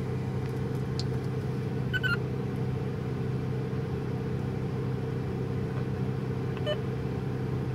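Steady low idling drone of a car, heard from inside the cabin.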